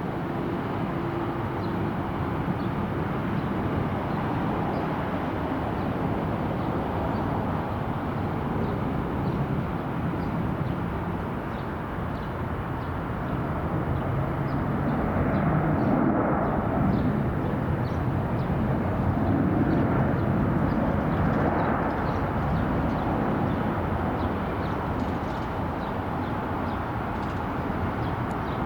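Jet aircraft engine noise: a steady rumble and hiss that swells twice around the middle.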